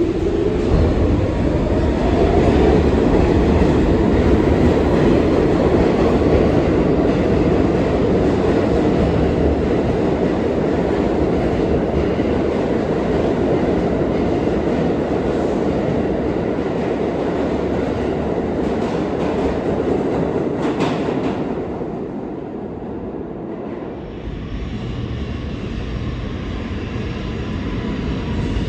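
New York City Subway (A) train running through an underground station: steady loud rumble and wheel clatter on the rails, with a brief rising motor whine at the start. It eases off about 22 seconds in and grows louder again near the end.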